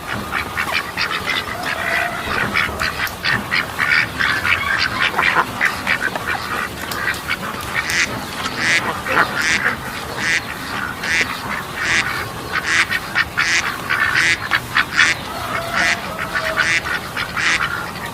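A flock of ducks quacking: many short calls overlapping in quick succession throughout.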